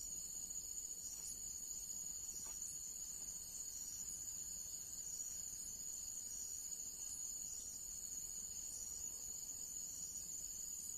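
Crickets chirping in a steady, high-pitched chorus, with a faint pulsing trill underneath.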